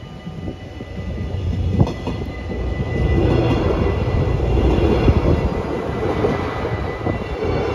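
Stadler GTW diesel railcar (GTW-D) passing over a level crossing. The train's running noise grows louder about three seconds in and stays loud as the carriages and the diesel power module go by.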